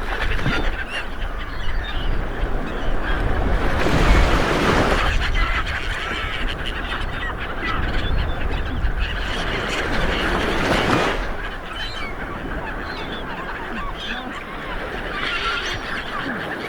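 Sea waves breaking and washing up on a beach, swelling about four seconds in and again around ten seconds, with birds calling repeatedly over the surf.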